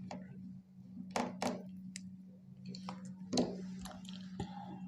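Scattered light clicks and taps of small repair tools on a smartphone's internal parts as its tiny screws are removed and picked out, over a steady low hum.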